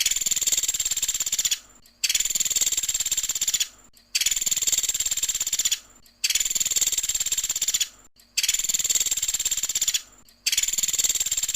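Recorded song of a pelatuk sampit (small woodpecker), a rapid high trill of fast repeated notes, about a second and a half long, played over and over about every two seconds: six trills in a row, each cut off abruptly.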